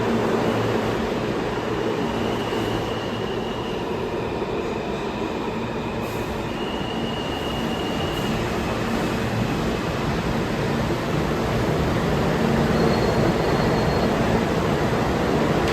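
New York City subway train running on the Broadway Line tracks at a station, a steady rumble with faint high wheel squeals that come and go.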